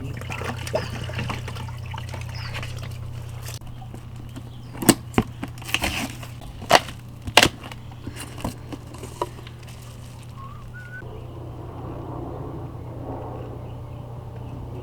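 A cluster of sharp knocks and clacks, about eight over two or three seconds, as the old pond pump is pulled out of the skimmer's pump vault and handled, over a steady low hum.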